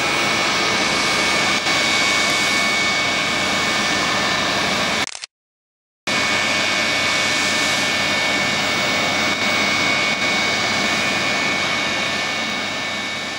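Douglas DC-8 jet engines running: a loud, steady rush with high whining tones. The sound cuts out completely for under a second about five seconds in, then fades toward the end.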